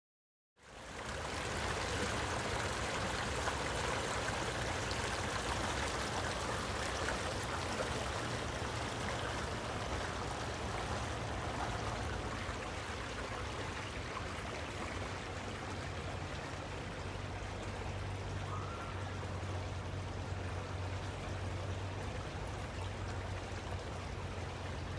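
Steady rush of flowing water, like a stream, fading in about half a second in and holding at an even level.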